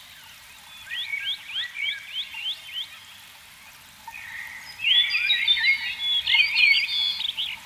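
High-pitched animal calls: a quick run of short rising chirps, then a denser stretch of warbling calls from about halfway through.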